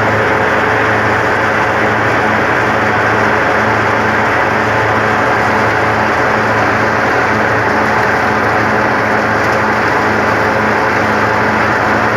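Hazelnut husking thresher (patoz) running steadily, a loud continuous mechanical din with a low engine hum under it.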